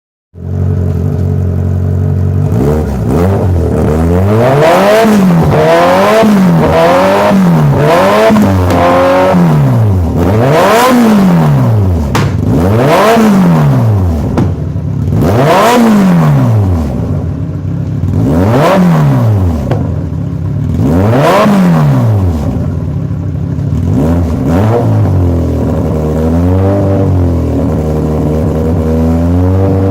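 Kawasaki Z1000's inline-four engine through a stainless steel aftermarket racing exhaust, idling and being revved with the throttle. First comes a run of about five quick blips, then five longer revs a few seconds apart, and it settles back to idle near the end.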